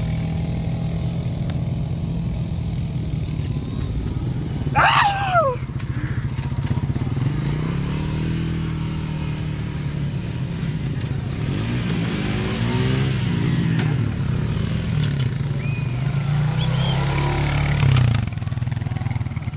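Motorcycle engine running steadily, its pitch rising and falling as it is revved at a few points, with a louder rev near the end. About five seconds in, a brief loud high sound falls sharply in pitch.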